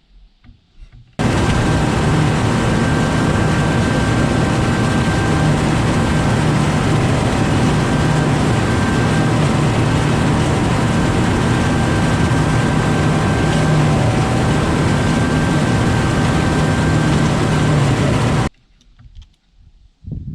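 Tractor engine running at a steady speed, loud and even with a constant hum. It cuts in suddenly about a second in and cuts off abruptly near the end.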